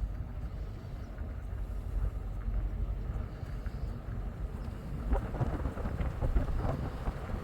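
Wind buffeting the microphone as a steady low rumble, with scratchy crackling from about five seconds in.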